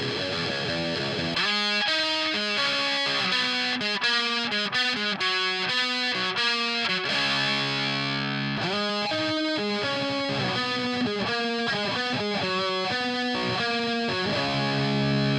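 Distorted electric guitar played through a mini guitar amp into a 4x12 cabinet loaded with V30 and ET90 speakers: a quick run of single notes and riffs, with one note held for about a second a little past the middle.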